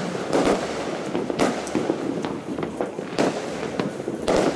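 Many fireworks going off at once: an unbroken crackle with sharp bangs every half second to a second.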